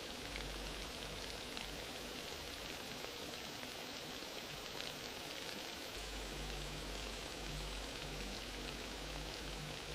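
Wood fire crackling in a fireplace: a steady hiss dotted with many small sharp pops, with a low rumble that comes and goes and returns about six seconds in.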